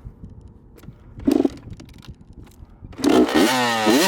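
Dirt bike engine kick-started: it catches about three seconds in and is revved at once, its pitch climbing and dropping in quick blips.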